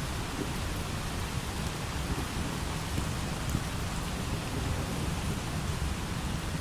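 Steady light rain with a continuous low rumble of thunder underneath.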